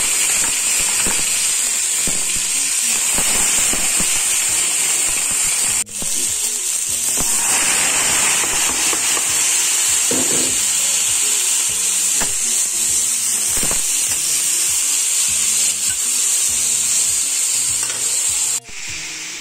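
Grated white radish (daikon) frying in hot oil with ginger slices in a stainless-steel wok: a loud, steady sizzle, stirred with a metal spatula.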